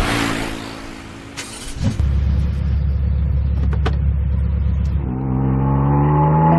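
A motor vehicle engine: a steady low rumble, then revving with the pitch rising slowly from about five seconds in.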